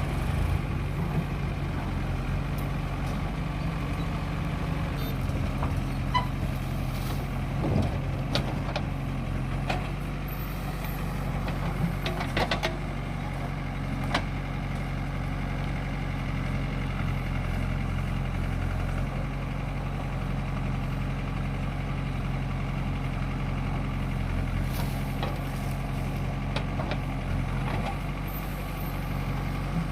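A heavy diesel engine running steadily, with several sharp knocks and clanks in the first half.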